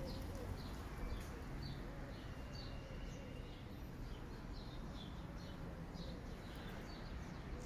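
Small birds chirping, with many short high calls scattered throughout and one longer held note a little after two seconds in, over a steady low rumble.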